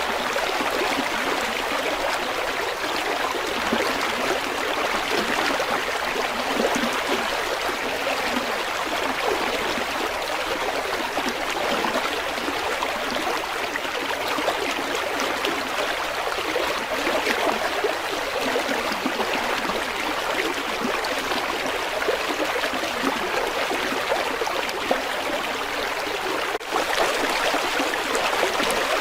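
River water flowing steadily over rocks, an even rushing and babbling with no let-up, apart from a momentary dip in level near the end.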